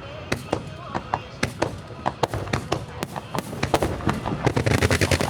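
Aerial fireworks shells bursting in quick succession, sharp reports a few per second, thickening into a denser crackling barrage near the end.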